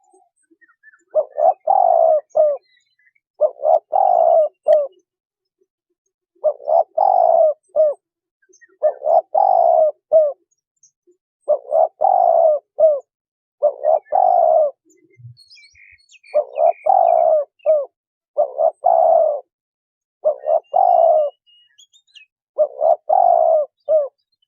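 Spotted dove cooing: the same short phrase of a few quick coos repeated about ten times, roughly one every two seconds.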